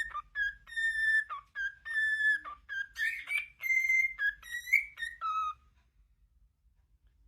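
Pet bird whistling a tune: a phrase of held, steady notes repeated several times, ending about five and a half seconds in.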